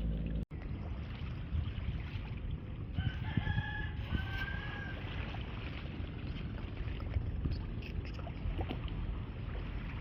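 A rooster crows once, about three seconds in, a long, held call, over steady background noise.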